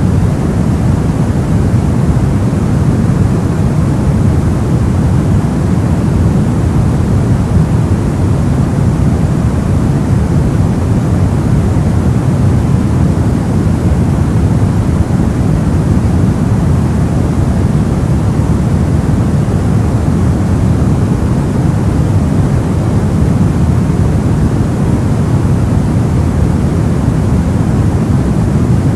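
Soft white noise for sleep: a steady, unchanging hiss weighted toward the low end, deep and rumbly rather than bright.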